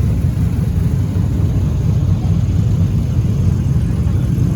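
Steady low rumble of a car engine running nearby.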